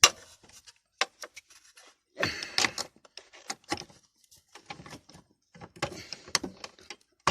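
Irregular metallic clicks and clinks of tools and small hardware being handled while a bolt and bracket are fitted, with a short rattling clatter about two seconds in.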